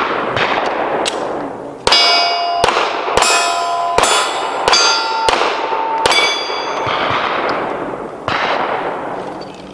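A string of pistol shots, one every half to one second, with the hits on steel plate targets ringing out with a metallic clang after several of them, mostly about two to six seconds in. Each shot echoes and dies away across the range.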